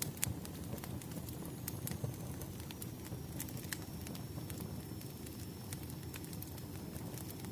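Wood fire crackling: a steady low rumble of burning with irregular sharp pops and snaps, and a faint thin high whistle that comes in a second or two in and holds.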